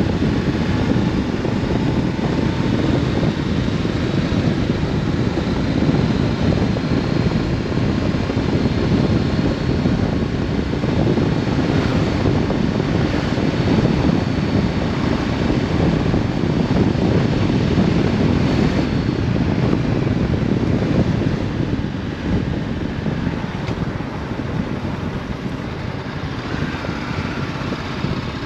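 Wind rushing over a helmet-mounted microphone while riding a Honda CB500F, its parallel-twin engine running through an Akrapovic exhaust beneath the wind. The noise eases a little about three-quarters of the way through.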